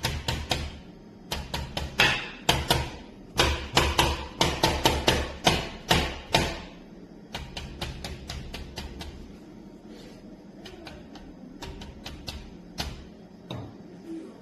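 Donner DED-80 electronic drum kit played with sticks: a fast run of drum hits with deep kick thumps for about seven seconds, then lighter, scattered taps.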